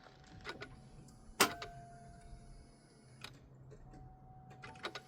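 Clicks as the key is turned on a Chevy Trailblazer that will not crank, the sharpest about one and a half seconds in. After it a faint steady electronic tone comes on, stops, then returns. The engine does not turn over.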